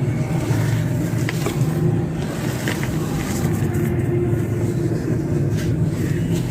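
A steady, low mechanical hum like a running engine, with a few faint clicks or crackles over it.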